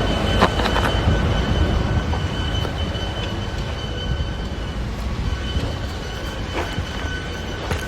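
Komatsu WA470 wheel loader running under load: a steady low diesel rumble with a high whine over it, and a couple of knocks in the first second.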